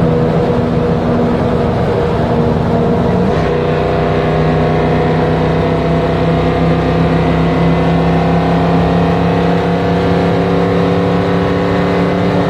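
1975 Ford Bronco's engine pulling on the road, heard from inside the cab with road noise. Its pitch steps down about three seconds in as the transmission shifts up, then climbs slowly as the truck accelerates.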